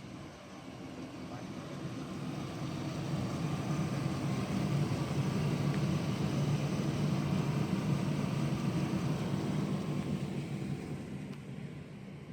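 Low, steady vehicle rumble that swells over several seconds, peaks about midway and fades toward the end.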